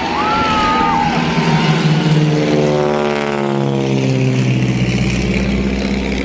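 Military aircraft flying low past, its engine note loud and dropping steadily in pitch as it goes by overhead.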